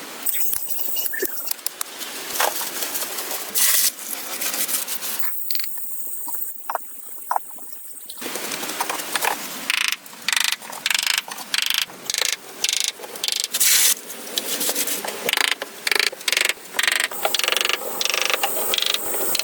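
Hand-tool work on building material: short rasping strokes, scattered at first, then repeated about one or two a second in the second half.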